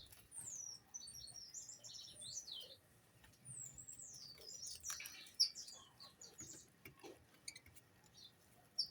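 Small birds chirping and twittering: a busy run of quick, high chirps, many of them falling in pitch, with a few faint clicks among them.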